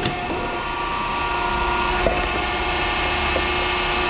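Electric saw motor running steadily with an even whine, with a couple of faint clicks partway through.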